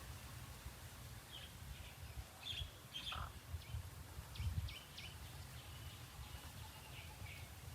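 Outdoor ambience: scattered short bird chirps over a steady low rumble, with a louder low thump about halfway through.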